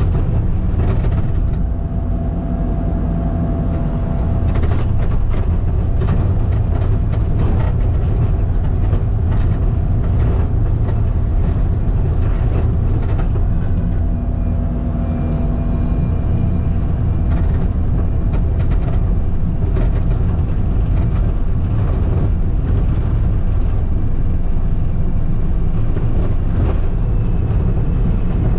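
Skid steer running steadily with a grader attachment, the engine's low drone constant and overlaid by scattered clanks and rattles.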